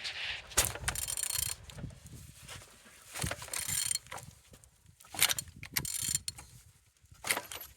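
Used engine being turned over by hand at the crankshaft, heard as several short bursts of mechanical clicking and rubbing. It turns freely.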